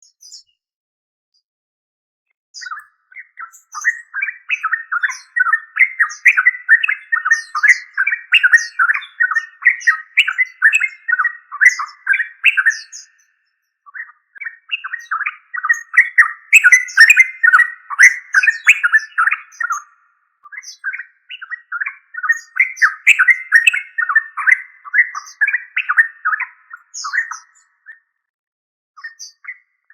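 Yellow-vented bulbul singing: three long bouts of rapid chattering notes with short pauses between them.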